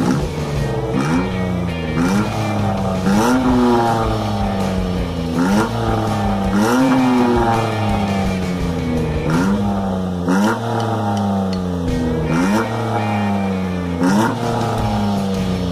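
Engine revved again and again through an aftermarket exhaust muffler, about ten blips: each a quick rise in pitch followed by a slower fall back toward idle.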